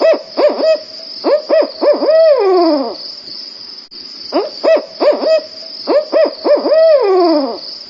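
Owl hooting in two matching phrases, each a run of short hoots ending in a long hoot that slides down in pitch. A steady high-pitched drone runs underneath.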